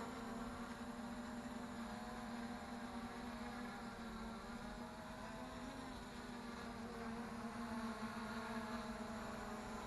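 3D-printed DJI Mavic clone quadcopter's motors and propellers buzzing in flight, a steady hum that wavers slightly in pitch.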